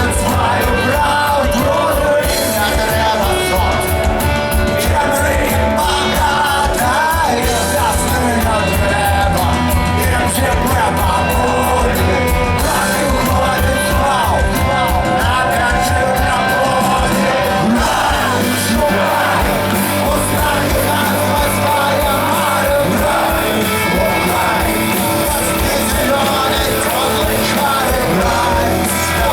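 Rock band playing live with a singer and some shouted voices, loud and steady throughout, heard in a large hall.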